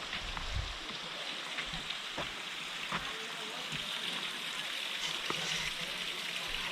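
Rushing water of a mountain stream or waterfall: a steady, even hiss, with a few light knocks along the way.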